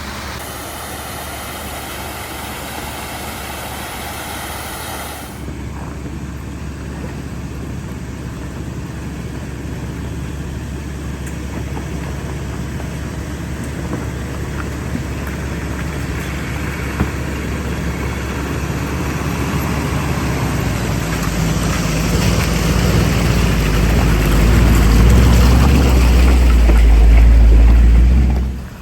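Truck engine running as the vehicle crawls down a rough dirt trail. A low rumble grows louder over the last several seconds, then cuts off abruptly.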